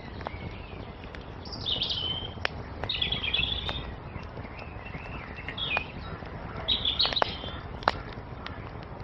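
Songbirds singing in four short chirping phrases over the steady crackle of a wood fire, with sharp scattered pops from the burning wood.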